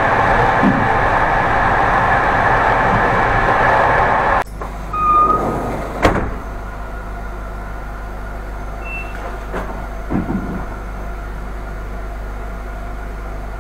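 Inside an Intercity train carriage: the steady running noise of the moving train. After a sudden cut it becomes the quieter low hum of the train standing at a station, with a couple of short high beeps and a sharp click.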